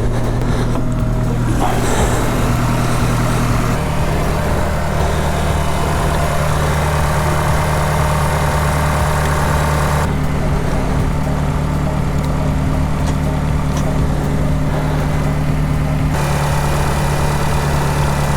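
A vehicle engine idling steadily, its note stepping abruptly to a different pitch a few times.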